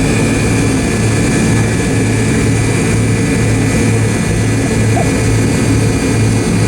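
Delta MD-88's rear-mounted Pratt & Whitney JT8D turbofans running steadily, heard from inside the passenger cabin: a steady rush of engine and air noise over a low hum that throbs slowly.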